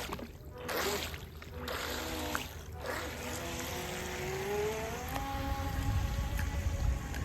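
Small radio-controlled boat's electric drive motor whining across the water, its pitch rising steadily about halfway through as the throttle is opened, then holding at the higher pitch.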